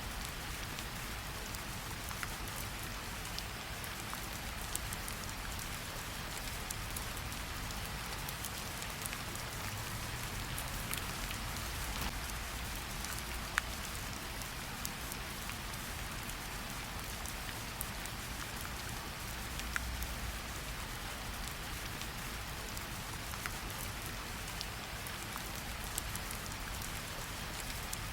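Steady rain falling on tree leaves, a continuous even patter with scattered individual drops ticking sharply.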